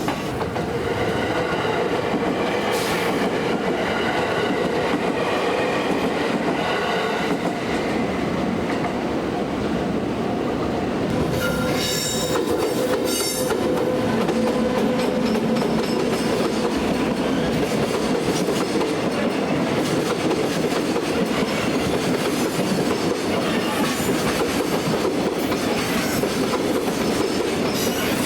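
Electric train passing a Japanese level crossing, its wheels clattering over the rail joints, while the crossing's warning bell rings its rapid repeated 'kan-kan'.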